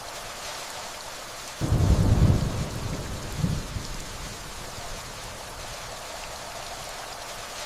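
Steady rainfall with a low rumble of distant thunder that starts suddenly about a second and a half in, swells once more and dies away before the halfway point, leaving the rain alone.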